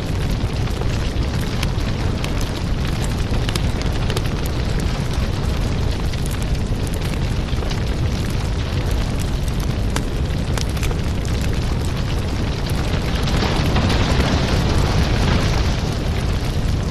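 Firewood fire burning: a steady low rumble of flames with frequent sharp crackles and pops from the logs, and a stronger hiss for a couple of seconds near the end.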